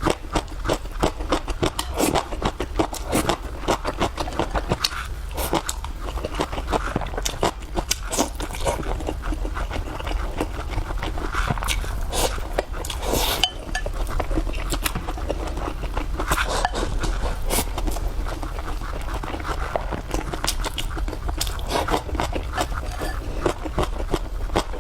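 Close-up eating sounds: a person chewing and smacking, with dense, irregular clicks throughout over a steady low hum.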